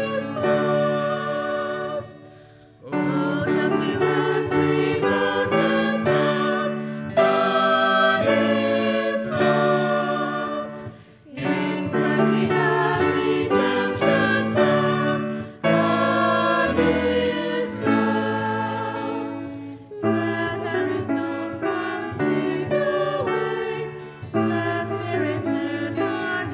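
Congregational hymn sung by a small group of mixed voices, with piano and guitar accompaniment, in phrases broken by short breaths.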